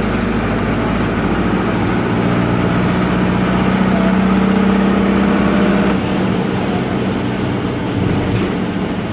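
Noisy air-cooled Deutz F4L912 four-cylinder diesel of an Otokar M-2000 minibus running under way, heard from the driver's cab. It grows louder and steadier over the first few seconds, then drops suddenly about six seconds in.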